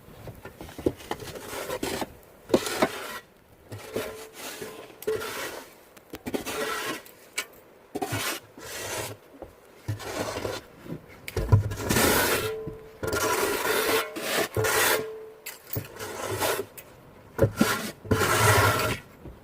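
Snow shovel scraping and pushing through light, fresh snow in repeated strokes about a second apart, with a few sharp knocks between them.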